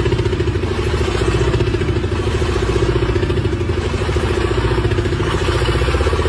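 An engine running steadily at a constant speed, with a rapid even pulse.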